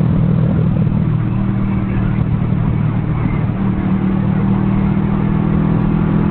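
Kawasaki Vulcan S parallel-twin engine running steadily at highway cruising speed, about 100 km/h, with wind rushing past.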